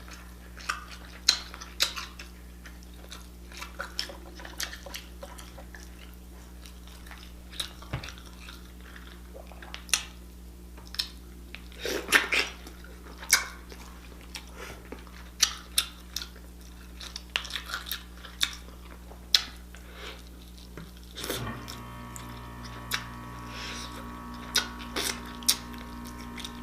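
Close-up mouth eating sounds: chewing and smacking with scattered sharp clicks and light knocks, like utensils or dishes. About 21 seconds in, a steady hum with several tones joins in.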